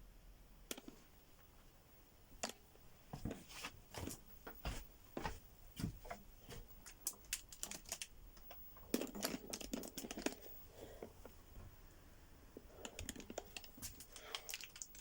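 A door rattling in its frame: a long run of irregular light clicks and knocks, denser in two spells, as if something were pushing the door, or a draught moving it.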